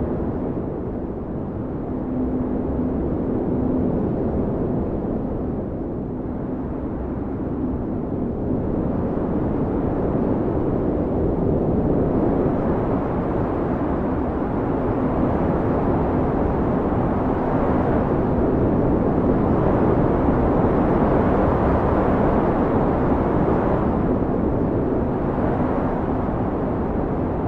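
Howling wind of a snowstorm: a steady rushing noise that swells and eases every few seconds, with a faint low held howl running through it.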